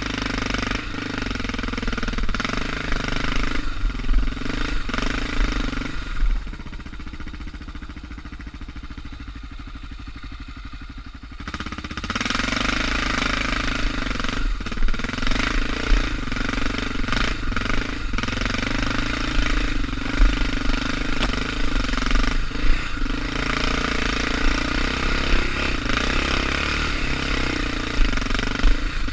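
Suzuki DR650 single-cylinder four-stroke engine running as the motorcycle rides a dirt trail. The engine drops to a quieter, lower note for about five seconds a quarter of the way in, then pulls again, with occasional short knocks.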